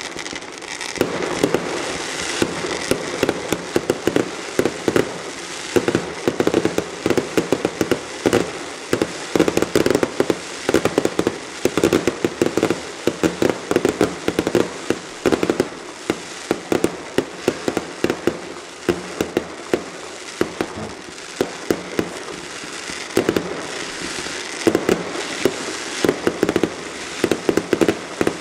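Fireworks display: dense, rapid crackling and popping from bursting crackle-star shells, with sharper louder pops scattered throughout.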